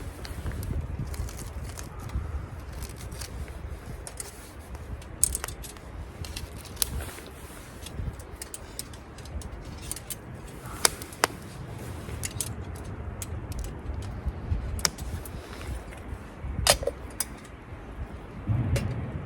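Wind rumbling on the microphone, with scattered sharp clicks and ticks throughout. The loudest clicks come about eleven seconds in and near the end.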